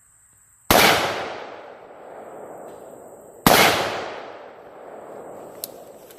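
Two 5.56 rifle shots about three seconds apart, each followed by a long, fading echo.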